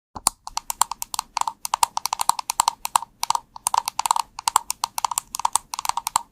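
Typing on a computer keyboard: a quick, uneven run of crisp keystrokes, several a second, starting just after the beginning.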